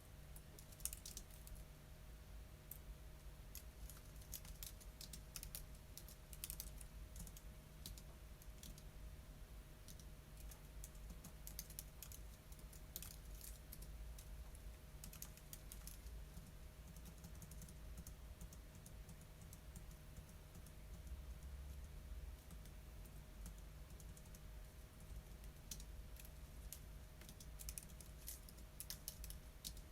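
Typing on a computer keyboard: quick runs of light key clicks in bursts, thinning out to a few scattered taps in the middle. A faint steady hum runs underneath.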